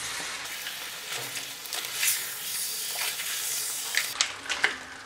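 Thick crab roast masala sizzling in the pot as a wooden spatula stirs and turns the crab pieces. A few sharp knocks and scrapes of the spatula against the pot come near the end.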